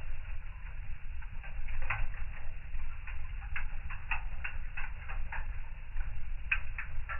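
Wood fire burning in a fireplace: irregular sharp crackles and pops, several a second at uneven spacing, over a low steady rumble.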